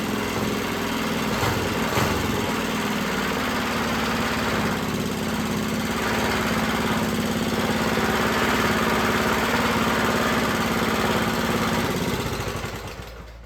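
Freshly rebuilt Clinton single-cylinder small engine running steadily after its rebuild, then dying away and stopping near the end.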